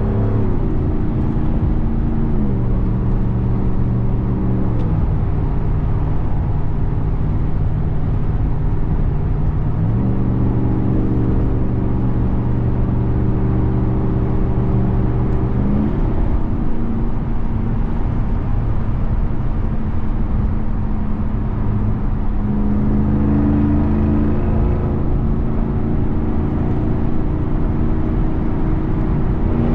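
2021 Ram 1500 TRX's supercharged 6.2-litre Hemi V8 running while the truck is driven, heard from the driver's seat. The engine note holds steady for stretches and steps to a new pitch several times as the transmission changes gear.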